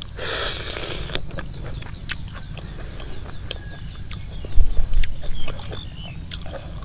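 Close-miked eating: a noisy bite lasting about a second as food goes into the mouth, then chewing with scattered small clicks. A dull low thump a little past the middle is the loudest sound.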